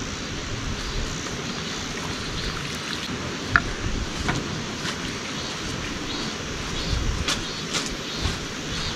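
Steady rushing of a mountain stream, with wind rumbling on the microphone and a few sharp clicks, the loudest about three and a half seconds in.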